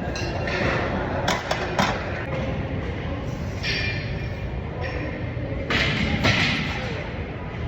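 Metal clinks and thuds of gym weights, a few sharp knocks and scraping stretches over a steady room rumble.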